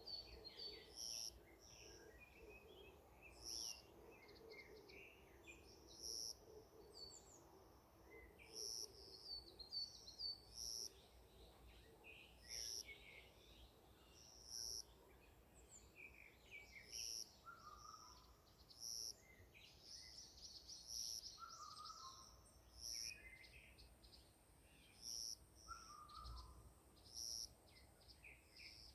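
Faint forest birdsong: several birds chirping and twittering at once, with a short high note repeating about every second and a few lower warbled phrases later on, over a faint steady hum.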